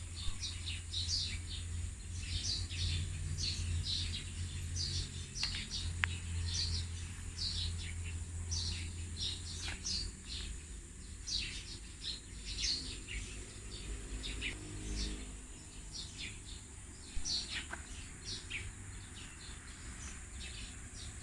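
Small birds chirping continuously, many short high falling chirps several times a second, over a steady low rumble.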